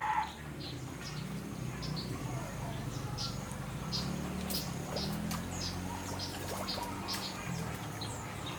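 A small bird chirping, short high chirps repeated about two to three times a second, over a steady low hum.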